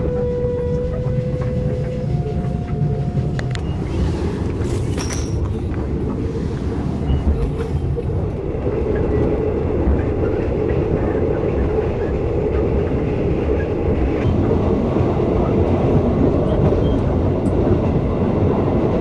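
Passenger train running at speed, heard from aboard the sleeper coach: a steady rumble of wheels on the track. A steady high whine sounds over it for the first few seconds, stepping up in pitch about two seconds in before it stops.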